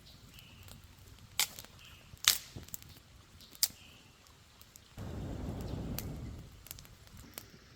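A freshly lit campfire with resin on it, crackling with a few sharp pops. About five seconds in, a low rushing noise lasts for just over a second.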